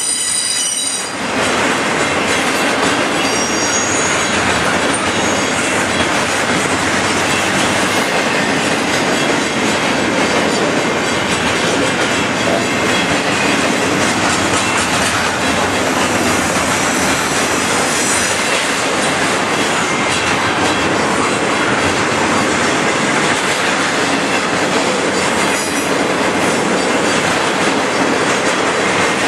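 Double-stack container freight train passing at close range: a steady, loud rumble and rattle of wheels on rail. High wheel squeal rings out at the start and briefly again a few seconds in.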